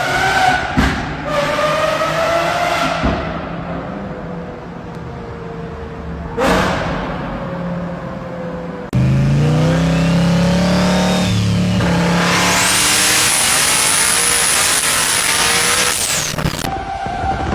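High-performance car engines being revved in short successive clips: the engine note climbs in pitch several times, with a sharp burst about six seconds in. After an abrupt change about nine seconds in, a louder engine runs steadily under a wide hissing screech.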